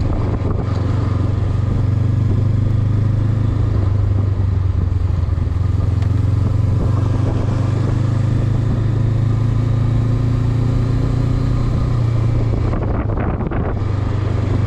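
Honda CB500X's parallel-twin engine running steadily as the motorcycle rides along, with a brief easing near the end.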